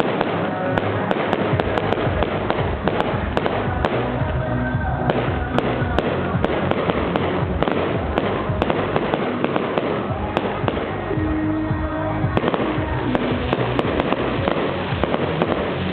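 Fireworks display: a steady run of bangs and sharp crackles, over music playing loudly with a regular bass beat.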